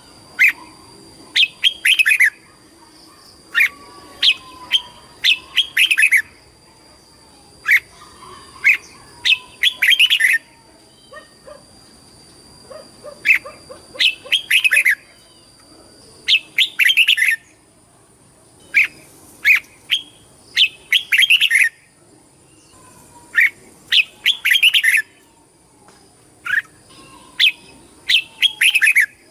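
Red-whiskered bulbul singing: short, loud bursts of quick chattering song phrases, repeated every second or two with brief pauses between.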